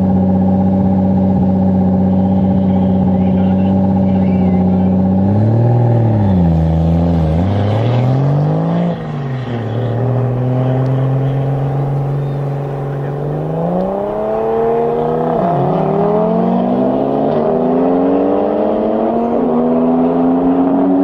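Tuned Toyota Supra Mk4's 2JZ straight-six held at a steady rev, then revved up and back down about six to nine seconds in. From about thirteen seconds it pulls hard, the pitch climbing through each gear and dropping sharply at each upshift.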